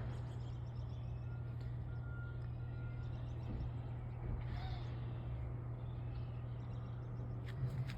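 Steady low hum of outdoor background, with three faint short high beeps between about one and a half and three seconds in.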